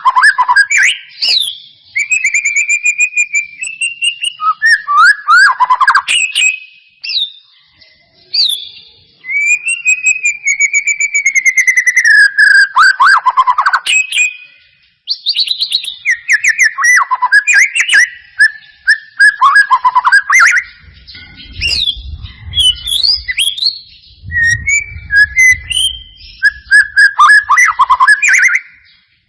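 White-rumped shama (murai batu) song: a long run of loud, varied whistled phrases with slurred glides and rapid trills, broken by short pauses. A faint low rumble lies under the song for several seconds past the middle.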